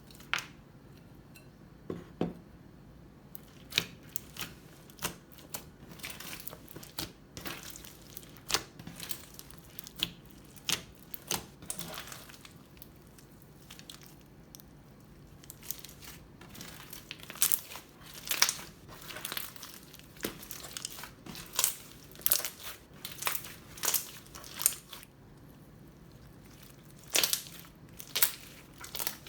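Crunchy slime full of beads and fish bowl beads being squeezed and pressed by hand, making irregular sharp crackles and pops. The crackles come more often and louder in the second half.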